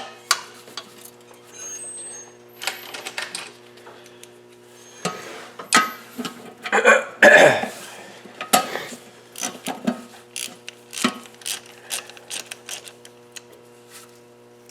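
Scattered metal clinks and knocks of a valve cover being fitted onto the head of a Mazda B2500's 2.5 L engine and its small bolts being handled, busiest about halfway through. A steady faint hum runs underneath.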